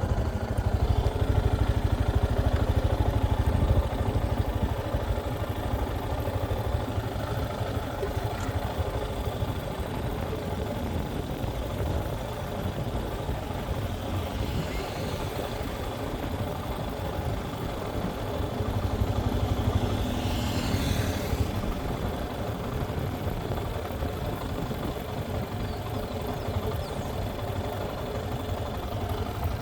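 A motor vehicle's engine running steadily with a deep rumble.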